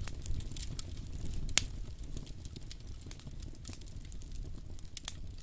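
Campfire burning: a low rumble of flames with scattered crackles and a sharp, loud pop about one and a half seconds in.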